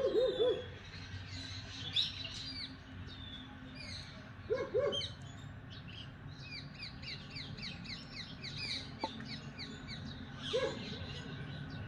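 Birds calling: harsh, crow-like calls in pairs a few seconds apart, and a quick run of high repeated chirps in the middle. A faint steady low hum from the distant approaching diesel locomotive runs underneath.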